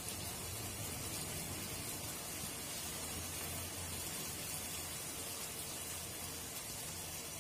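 Food frying in a steel pan on a gas stove: a steady, even sizzling hiss.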